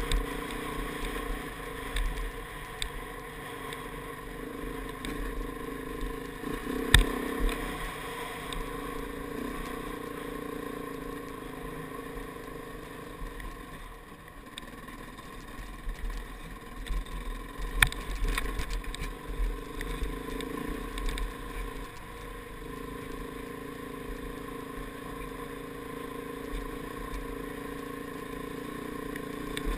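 KTM 690's single-cylinder four-stroke engine running steadily under load on a steep dirt hill climb, with low wind rumble on the microphone. A sharp knock comes about seven seconds in, and a burst of knocks and clatter from the bike over rocky ground comes around eighteen seconds in.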